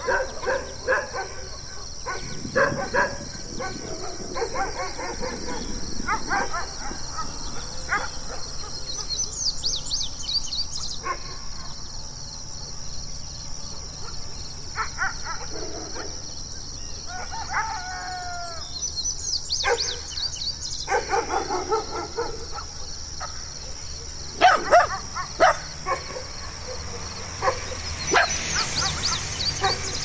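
Several different dogs barking and howling in turn: short runs of barks and calls with pauses between, the loudest being a couple of sharp barks about two-thirds of the way in, over a steady high hiss.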